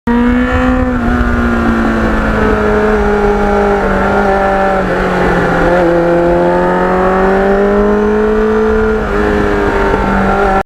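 Kawasaki Ninja motorcycle engine running under way over a low rumble. Its pitch sinks slowly over the first six seconds, then climbs again, with a brief drop in level a little after nine seconds.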